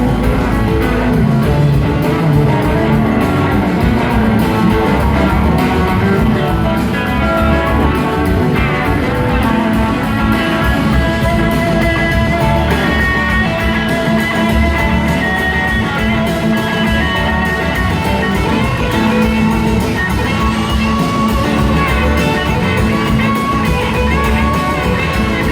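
Live rock band playing an instrumental passage, with electric guitar to the fore over drums and bass.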